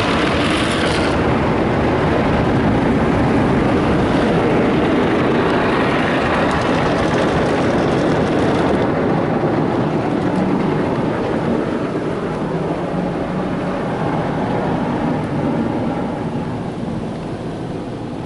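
Istobal automatic car wash working over the car, its water and spinning brushes on the body heard from inside the cabin as a steady rumbling wash of noise. The high hiss drops away about nine seconds in, and the sound eases slightly near the end.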